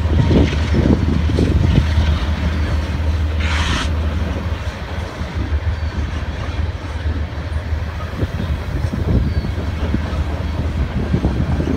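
BNSF diesel locomotives hauling an oil train of tank cars at speed, pulling away: a steady low engine drone over the rumble of the train rolling by. Wind buffets the microphone throughout, and there is a brief hiss about three and a half seconds in.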